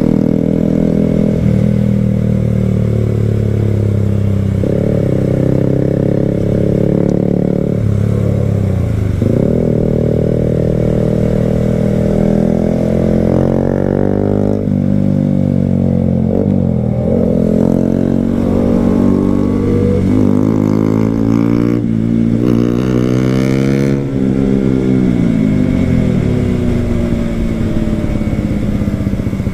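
KTM RC 200's single-cylinder engine pulling hard through the gears, its note climbing and dropping back at each shift or roll-off, several times over.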